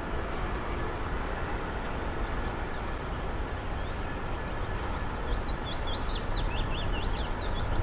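Steady low rumble of a Class 66 diesel-hauled train of hopper wagons. A small bird twitters over it in a quick run of high chirps about five seconds in.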